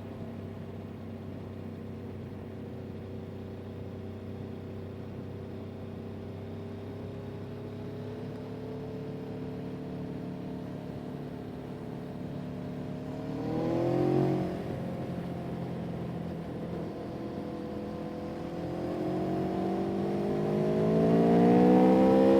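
Vehicle engine running, its pitch drifting slowly, then rising and falling sharply once about fourteen seconds in, and climbing steadily louder and higher near the end as it speeds up.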